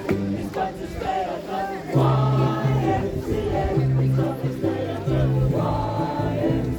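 Live folk music: voices singing over a band with a steady, stepping bass line.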